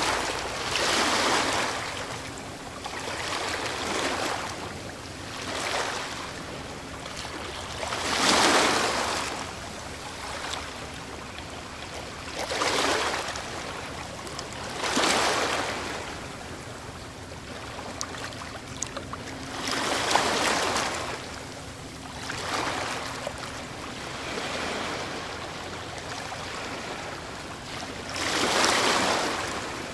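Ocean waves breaking on a shore: a steady wash, with a surge of hiss and rush every few seconds as each wave breaks, swelling and fading.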